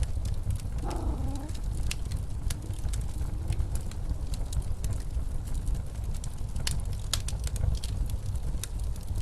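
Fireplace crackling with many sharp pops over the steady low rumble of blizzard wind. A short pitched call with a bending pitch sounds about a second in.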